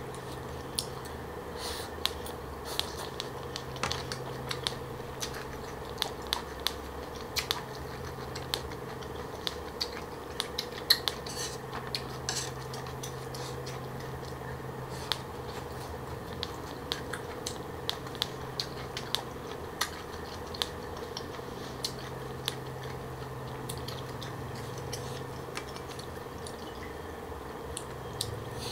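Close-miked eating of crunchy green papaya salad with pig ear and shrimp: irregular wet crunches and clicks from chewing and chopsticks against the bowl, over a steady low hum.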